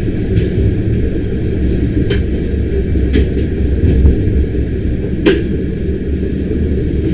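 Bernina Express train rolling along the track with a steady low rumble, and two sharp clicks from the wheels on the rails about two and five seconds in.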